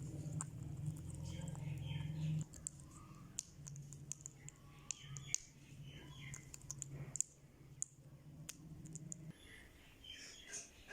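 Indian ringneck parakeet giving soft, short chirps amid scattered sharp clicks, over a low steady hum that breaks off about two and a half seconds in and stops near the end.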